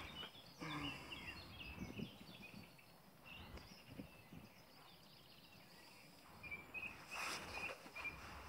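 Faint outdoor birdsong: small birds chirping in quick, repeated short notes, with a few soft knocks of fishing tackle being handled, one about half a second in and another near the end.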